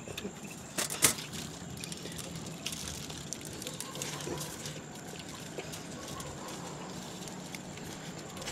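Scattered small clicks and light rustles over a steady background hiss, with one sharp click about a second in.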